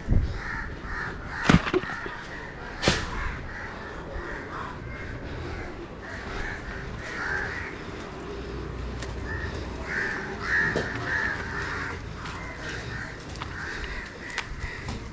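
Crows cawing repeatedly, with three sharp knocks in the first three seconds.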